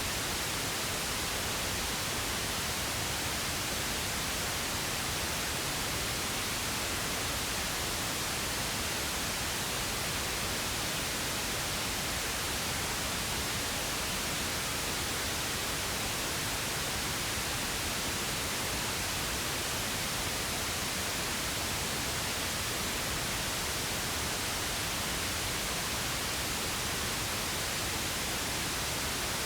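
Steady pink noise: an even, unchanging hiss spread across the whole range, with no events or variation.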